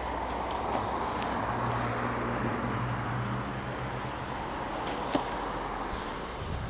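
A car passing on the road: tyre hiss swelling and fading, with a low engine hum, and a sharp click about five seconds in.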